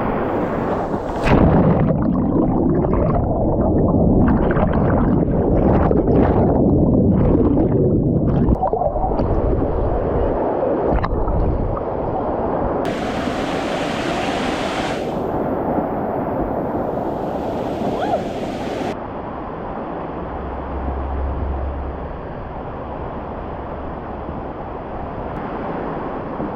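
Water of a cascading waterfall rushing and splashing over rocks, heard in a few short clips with sudden changes between them.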